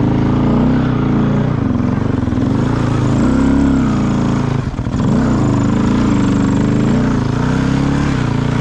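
Off-road vehicle engine running under changing throttle, its pitch rising and falling, with a brief drop about halfway through as the throttle comes off.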